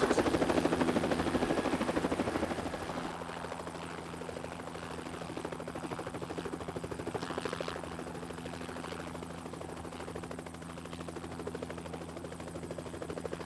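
Helicopter hovering low overhead, its rotor chop loud for the first few seconds and then dropping to a quieter, steady beat as it draws off.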